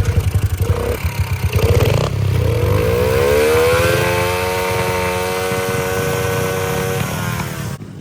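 Pit bike engine just kick-started: it runs with a few quick throttle blips, then revs up over about two seconds and holds high revs before easing off near the end.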